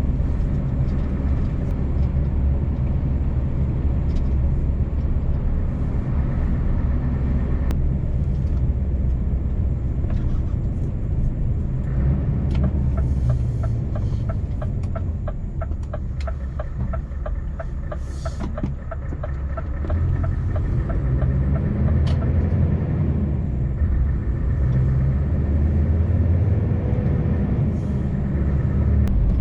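Scania V8 truck engine running steadily under way, a low drone heard from inside the cab. About halfway through, a run of quick, even ticks sounds over it for several seconds.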